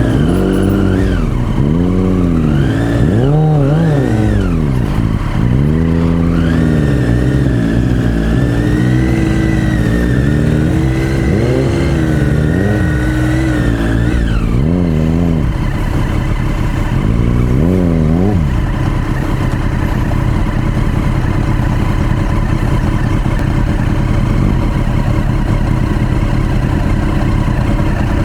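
Motorcycle engine revved up and down again and again, with several short rises and falls in pitch. About two-thirds of the way through it settles to a steady, even running tone.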